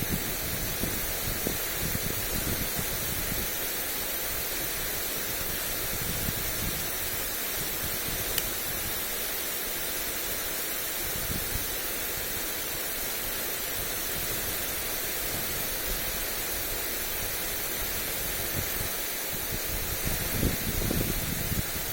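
Lawn sprinkler spraying water onto grass: a steady, even hiss of spray. Wind buffets the microphone in low rumbling gusts, strongest near the end.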